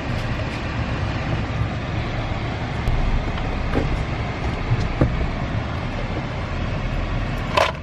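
Steady road and engine noise inside a moving car's cabin, with a few faint clicks and one short, sharp sound near the end.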